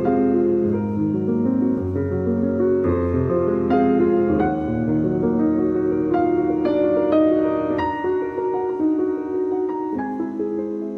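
Background piano music, calm and slow-moving, with notes struck one after another.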